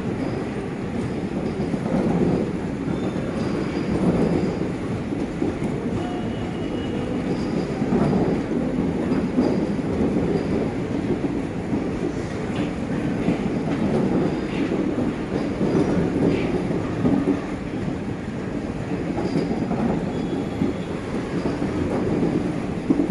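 Passenger coaches of a departing express train rolling past at low speed: a steady rumble of wheels on rail, with clatter swelling as each pair of bogies passes, about every six seconds, and faint brief wheel squeals.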